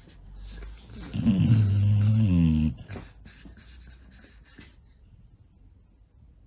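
A dog giving one drawn-out, low-pitched vocal call lasting about a second and a half, dropping in pitch at the start and then held steady.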